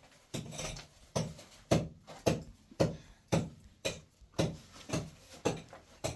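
A steady run of about eleven knocks or blows, roughly two a second, evenly spaced.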